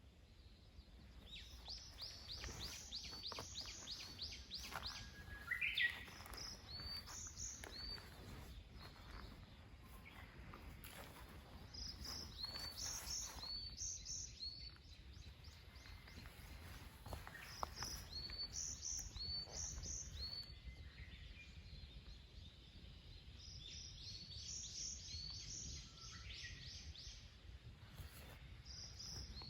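A songbird singing faint, high, repeated phrases of short chirping notes, a burst every few seconds, with scattered faint clicks underneath.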